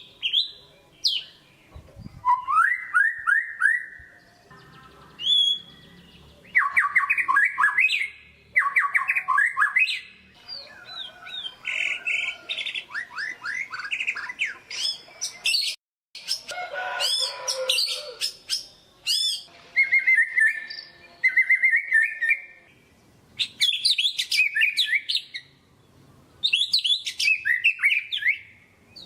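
White-rumped shama singing a loud, varied song of rapid repeated notes, trills and whistles in bursts with short pauses, breaking off for a moment about halfway through.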